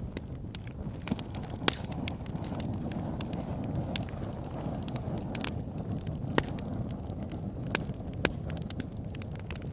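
Wood fire burning in a fireplace: a steady low rumble of flames with scattered crackles and a few sharp pops, one about a second and a half in and three in the second half.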